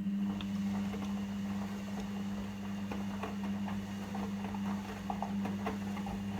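Logik L712WM23 washing machine running: a steady low mains hum with many irregular light clicks and rattles on top.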